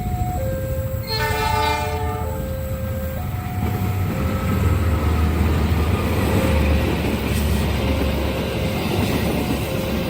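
A train horn sounds a short blast about a second in, over a level-crossing warning alarm that alternates between two electronic tones. After the horn, the low rumble of a passing train grows louder and continues.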